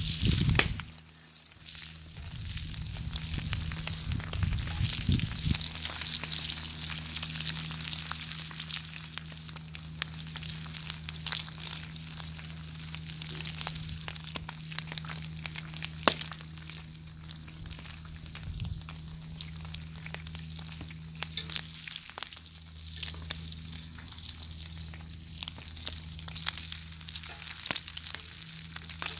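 Bacon frying in a pan over a wood fire: a steady sizzling hiss with many sharp pops and crackles scattered through it, over a steady low hum.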